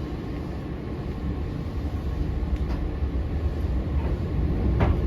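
Eizan Electric Railway 900 series "Kirara" railcar running, heard from inside the car: a steady low rumble of wheels on rail that grows gradually louder, with a short sharp click near the end.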